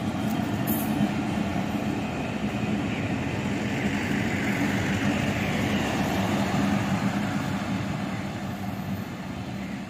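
Pakistan Railways passenger train running, a steady rumble with a constant low droning hum, easing off slightly near the end.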